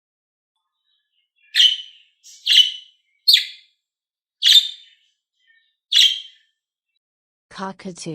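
Budgerigar calling: five short, sharp chirps about a second apart.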